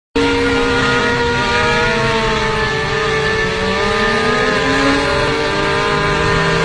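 Motorcycle engine running at a fairly steady speed, its pitch drifting slowly up and down.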